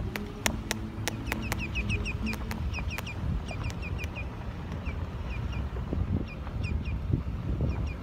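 A bird calling in a fast series of short, high chirps that slide downward, over a low rumble of wind on the microphone, with scattered sharp clicks.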